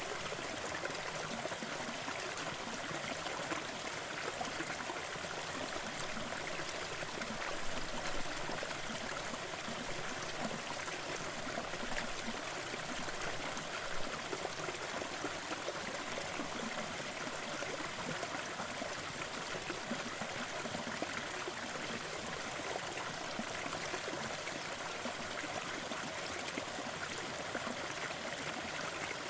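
Waterfall: a steady, even rush of falling and splashing water, with a couple of slightly louder splashes partway through.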